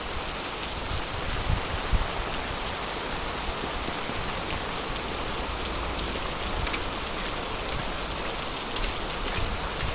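Steady rain falling, an even hiss with a few sharper drops or taps standing out now and then.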